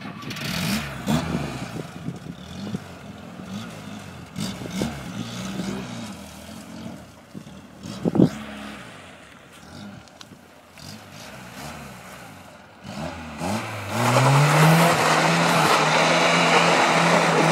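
VAZ 2106 four-cylinder engine revving up and down as the car pulls away, with one sharp knock about halfway through. Near the end the engine jumps to high revs and holds there, with a loud rushing noise of rear tyres spinning and scrubbing as the car drifts sideways.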